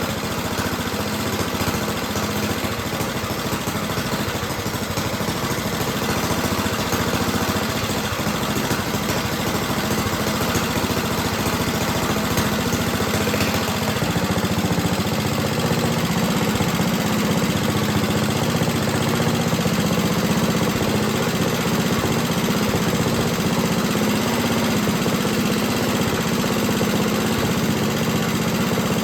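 Rebuilt Clinton small engine running steadily, its note shifting slightly and growing a little louder about halfway through.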